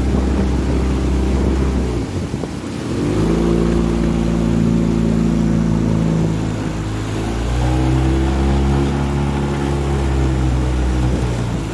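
Honda 20 hp four-stroke outboard running at speed. It eases off briefly about two seconds in, then comes back up, rising in pitch. Its pitch shifts again about halfway through.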